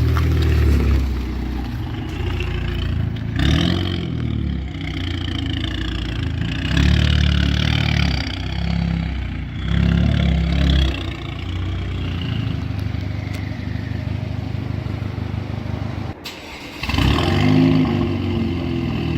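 Turbocharged 2.0-litre four-cylinder Chevrolet Camaro engine running through a catless downpipe and resonator exhaust, revving up in repeated surges and settling between them. The sound drops off briefly about sixteen seconds in, then the engine revs again.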